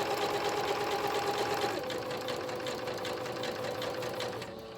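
Electric sewing machine running a zigzag stitch, a steady motor hum with rapid needle strokes; the hum shifts pitch about two seconds in and the machine stops just before the end.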